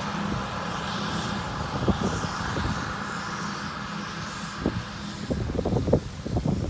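Farm machinery engine running steadily during corn harvest, with scattered knocks and rattles that come more often near the end.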